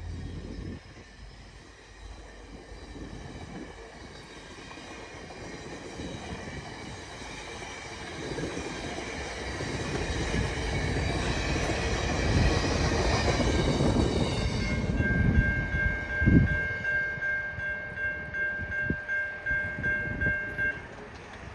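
VIA Rail passenger train getting louder as it approaches and passes, with wheel and rail noise. A steady high-pitched tone rings over it from about two-thirds of the way through.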